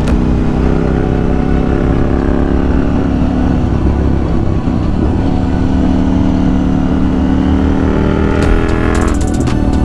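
KTM 790 Duke's parallel-twin engine pulling on the move, its pitch climbing slowly as the bike gathers speed. A run of sharp high ticks comes in near the end.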